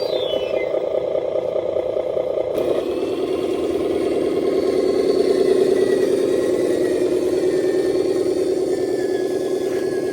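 RC dump truck running steadily, its motor and gears making a mid-pitched engine-like drone. A whine falls in pitch right at the start, and the drone steps down lower about two and a half seconds in.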